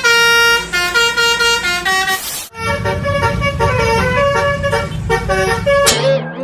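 A multi-tone 'telolet' bus horn playing a tune of stepped notes. It cuts off abruptly about two and a half seconds in and another horn tune follows, with a brief falling sweep near the end.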